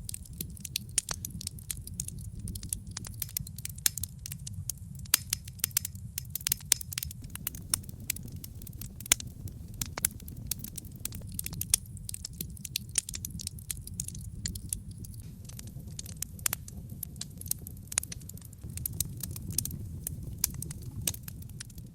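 Wood logs burning in a brick fireplace: irregular sharp crackles and pops over a steady low rumble of the flames.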